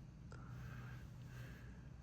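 Near silence: faint room tone with a low hum and a single faint click about a third of a second in.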